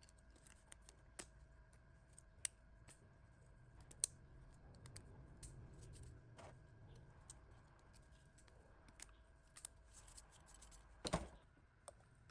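Faint, scattered light clicks and taps, with one louder knock near the end, over a faint steady hum.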